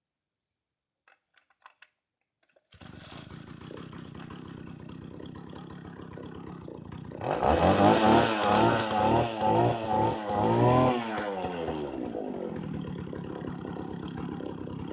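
Two-stroke chainsaw engine catching about three seconds in and idling. Midway it is revved in about five quick throttle blips, pitch rising and falling each time, then it drops back to idle.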